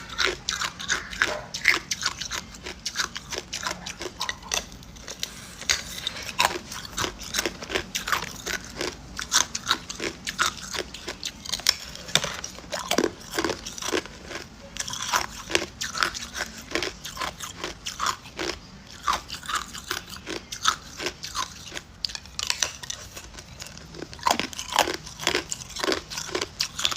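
Hard ice cubes being bitten and crunched between the teeth close to the microphone: a continuous, irregular run of sharp cracks, several a second.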